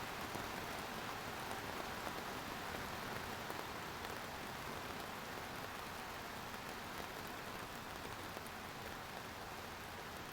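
Steady rain falling, an even hiss with fine scattered drop patter, easing slightly toward the end.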